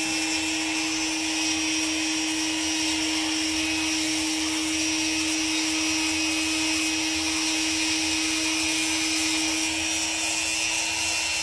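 Dremel rotary tool running with a steady whine, grinding a parrot's nails smooth.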